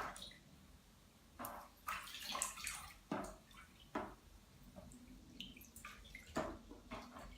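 Sesbania flowers being washed by hand in water: irregular splashes and drips.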